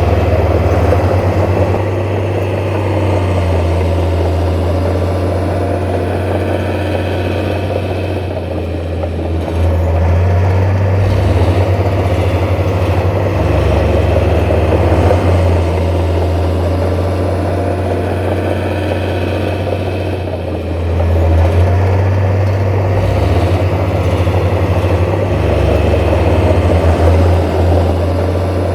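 Heavy diesel engine of earthmoving machinery working at a construction site: a steady low engine hum that swells and eases as the load changes, with a louder stretch near the end.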